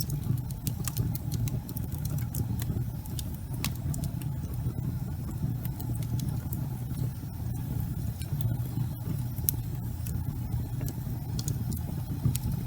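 Wood fire crackling in a fireplace: a steady low rumble under many scattered, irregular sharp pops and snaps.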